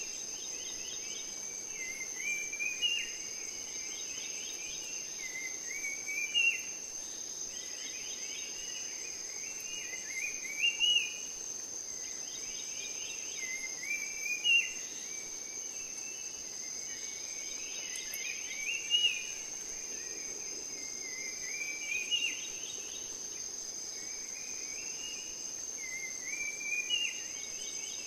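Steady high-pitched insect drone, with a bird repeating a short phrase of quick notes about every four seconds.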